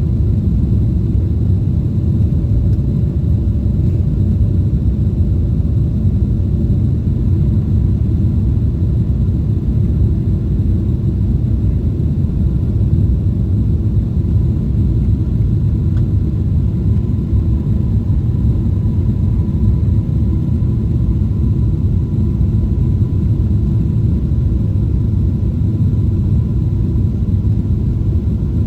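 Steady low rumble of a Boeing 777-300ER's engines and airflow heard inside the passenger cabin, running evenly with no distinct events.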